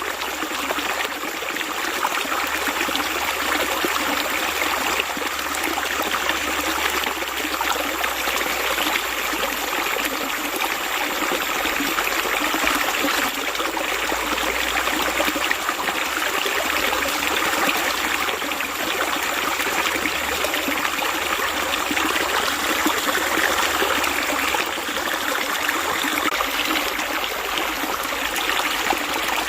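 Water flowing steadily, an even, continuous rush with no pauses or changes.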